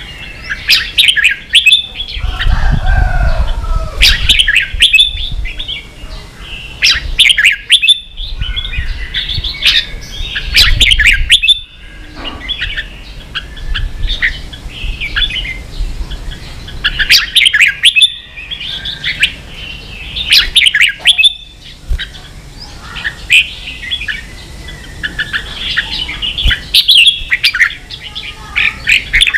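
Red-whiskered bulbul singing: short, quick, chattering phrases repeated every second or two, the fast "ché" song used to train other bulbuls to sing.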